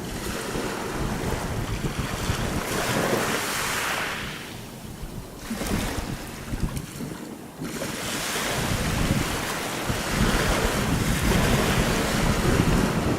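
Small sea waves washing in over small pebbles, the hiss of the surf swelling and fading in surges, with wind rumbling on the microphone.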